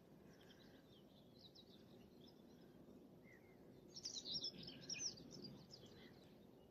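Faint songbirds chirping and twittering, with a busier, louder spell of calls from about four seconds in.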